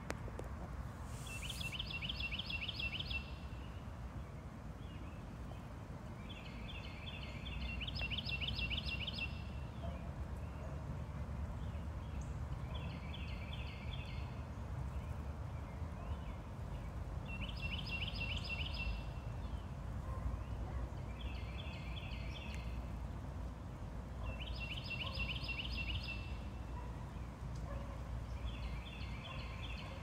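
A songbird singing a short, rapid trill, each about a second and a half long, about eight times at intervals of three to four seconds. Underneath is a steady low background rumble.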